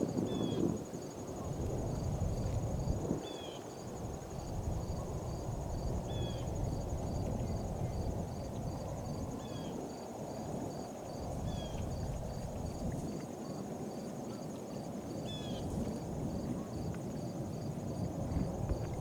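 Outdoor ambience: insects, likely crickets, chirping steadily about twice a second with a thin high whine, over a low rumble of wind or distant traffic. A short, higher, dropping call repeats every few seconds.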